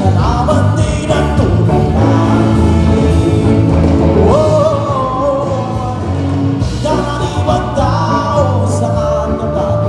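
Amplified band music with a singer: a sung melody slides up about four seconds in and holds a long note near the end, over a steady bass line.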